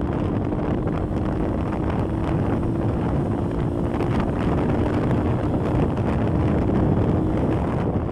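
Wind buffeting the microphone of a moving Lifan 125cc motorcycle, with the bike's single-cylinder engine holding a steady note underneath. The engine note fades into the wind shortly before the end.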